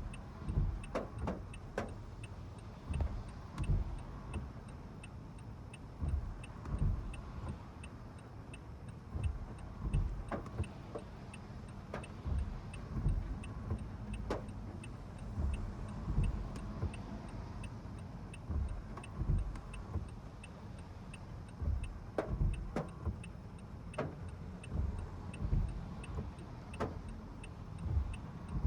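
A car's turn-signal indicator ticks steadily about twice a second inside the cabin. Low rumble and irregular low thumps from the car run underneath.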